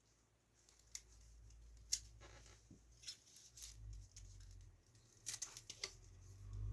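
Light handling noises of small parts being worked on: a handful of sharp, separate clicks, with a quick cluster of clicks near the end, over faint rustling.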